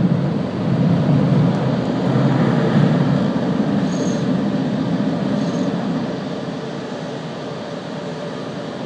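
Steady rumbling noise of an automatic car wash's machinery and spray, slowly fading, with two short high-pitched beeps about four and five and a half seconds in.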